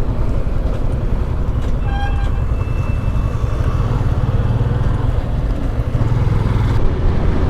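Motorcycle running at road speed, its engine and wind noise making a steady low rumble on the rider's microphone. About two seconds in, another vehicle's horn sounds briefly.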